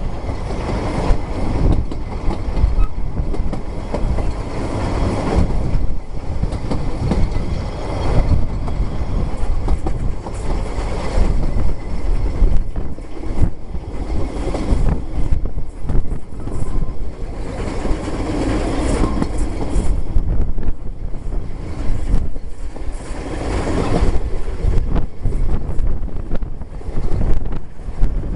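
Narrow-gauge steam train running, heard from a carriage window: a steady rumble from the coaches with the wheels clicking over the rail joints.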